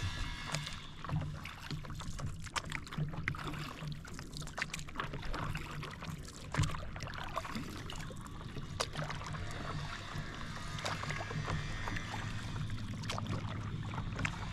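Lake water slapping and splashing against a paddle board in many short irregular splashes, over a steady low rumble of wind on the microphone.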